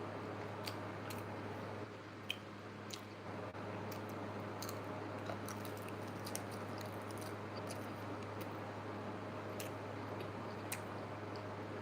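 A person chewing food close to the microphone, with short wet mouth clicks and smacks at irregular moments, over a steady low hum.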